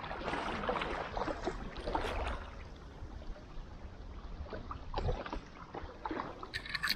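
Paddle strokes splashing and water sloshing around stand-up paddleboards, with a sharp knock near the end.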